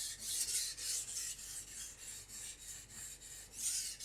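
Steel knife edge stroked back and forth on a Naniwa Professional whetstone: a rhythmic grinding hiss of about two strokes a second, softer in the middle and louder again near the end. The edge is being ground to raise a burr.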